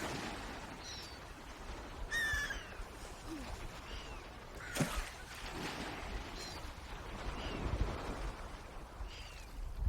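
Swans calling in short high calls, many falling in pitch, roughly once a second, with louder calls about two and five seconds in, over low background rumbling.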